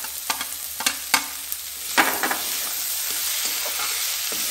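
Vegetables frying in a metal kadhai with a steady sizzle, as freshly added grated capsicum is stirred in. A spatula knocks and scrapes against the pan about half a dozen times in the first two seconds, then the sizzle grows fuller.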